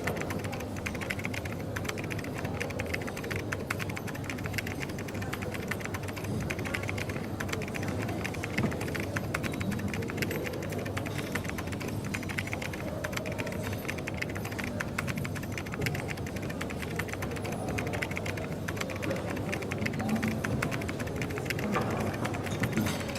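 Steady, rapid typing on a computer keyboard, many quick clicks with no pauses, over the low background hum of a coffee shop.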